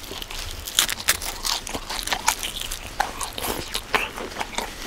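Crunching bites and chewing of charcoal-grilled chicken skin, a quick irregular run of sharp crunches.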